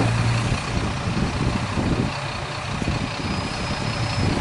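Diesel railcar engine idling: a steady low hum under an even rushing noise.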